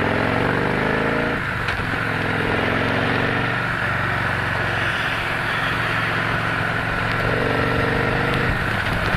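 Victory Cross Country motorcycle's V-twin engine pulling under acceleration, its pitch climbing and dropping back at each gear change, the first about one and a half seconds in. Wind rush runs beneath it throughout.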